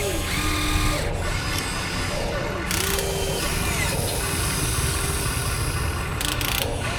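Small electric motors and gearboxes of a radio-controlled scale excavator whirring, their pitch rising and falling in short glides as the machine moves, with brief louder bursts about three seconds in and near the end.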